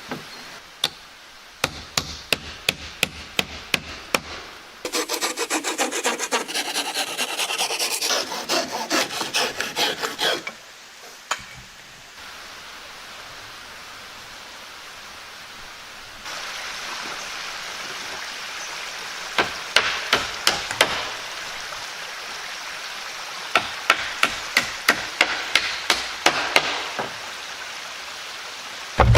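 Hand woodworking on pallet wood: a run of sharp hammer taps, then several seconds of rhythmic rubbing strokes on wood. The strokes come back later, joined by more bursts of taps.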